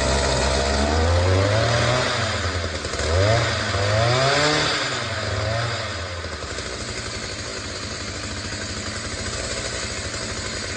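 Small engine just started, revved up and down twice, then settling to a steady idle about six seconds in. It is running unloaded, with no propeller yet fitted to its shaft.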